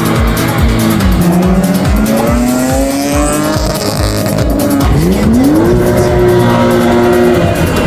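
A car engine revving, its pitch climbing then holding, over background music with a steady beat.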